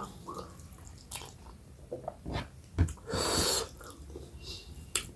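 Close-up mouth sounds of a person eating kodo millet dhido with chicken gravy curry: chewing and lip smacks with scattered wet clicks, and a short burst of hiss about three seconds in.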